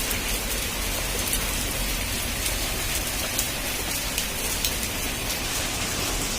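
Heavy rain falling steadily on a roof, a dense hiss with scattered individual drop ticks and a low rumble underneath.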